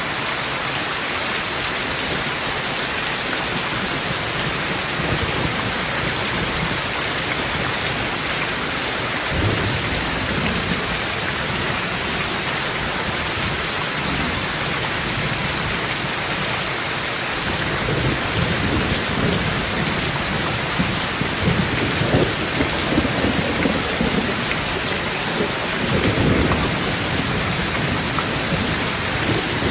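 Rain falling steadily, with thunder rumbling low once about a third of the way in and then several times through the second half.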